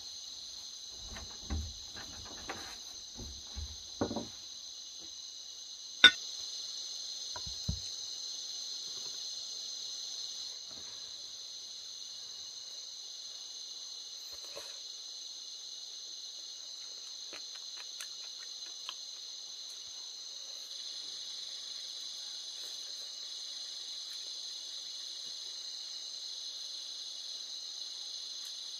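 Steady high chirring of insects in several pitch bands. A few dull knocks come in the first few seconds, and a single sharp click about six seconds in is the loudest thing.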